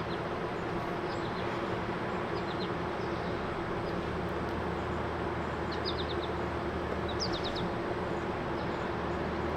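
Small songbirds chirping: a few short runs of three or four quick high notes, over a steady background hum.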